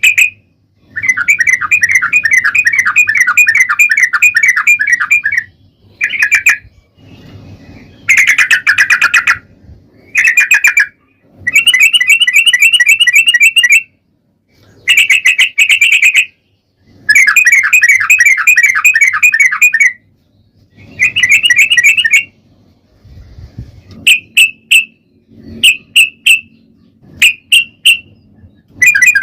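Yellow-vented bulbul (trucukan) singing its long, rapid 'ropel' song: loud phrases of quick, bubbling notes, each one to four seconds long, repeated with short pauses between them. The phrases grow shorter and more clipped near the end.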